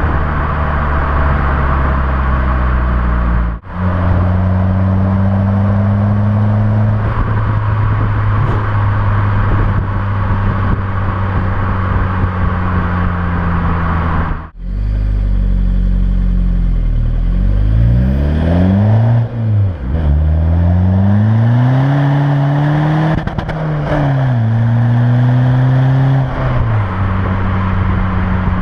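Tuned VW Golf MK4 1.9 TDI diesel engine sounding through a 60 mm stainless-steel exhaust with a Milltek silencer. It runs steadily, broken twice by short dropouts. From a little past halfway it is revved up and down several times in quick blips, then settles back to steady running near the end.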